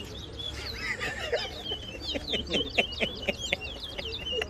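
Towa-towa (chestnut-bellied seed finch) singing: a twitter, then a fast run of sharp downward-sliding whistled notes, ending in a held note. This is the kind of song a judge counts in a song race.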